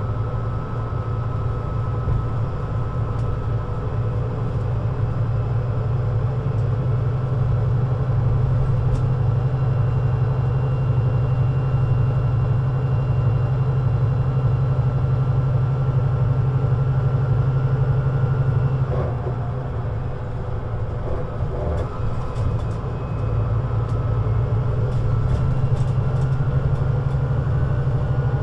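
Scania CN320UA 6x2/2 (Citywide LFA) articulated bus on the move, its engine running with a steady low drone and a faint whine above it. About two-thirds of the way through it eases off briefly, with a couple of knocks, then pulls again.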